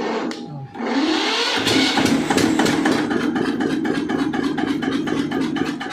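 Old Eicher diesel engine starting and catching about a second in, then running steadily with an even, rapid firing beat.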